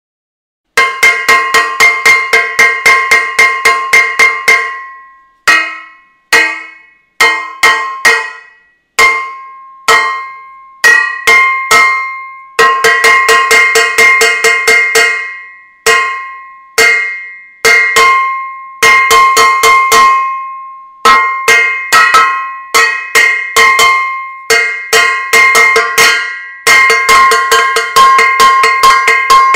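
A metal saucepan banged repeatedly with a clanging, ringing metallic tone. The hits come in quick runs of about four a second with short pauses between them, starting just under a second in.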